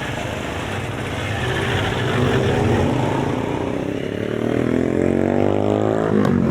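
A motor vehicle's engine revving up as it accelerates in street traffic, its pitch rising steadily for about four seconds, then dropping off abruptly near the end, as at a gear change.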